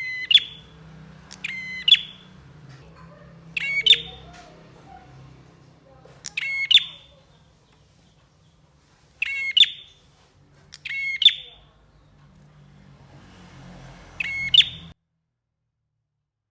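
A prenjak (prinia) giving seven short, loud, rapid chattering calls at irregular gaps of one and a half to three seconds. The sound cuts off abruptly near the end.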